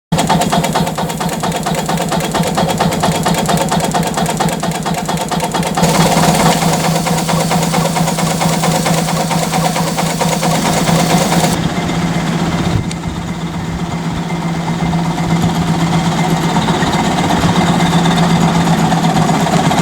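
Ruston Proctor 3 ton SD steam tractor running, a fast, even mechanical beat over a steady low hum. It gets a little louder about six seconds in, and a little past halfway the hissy top of the sound drops away.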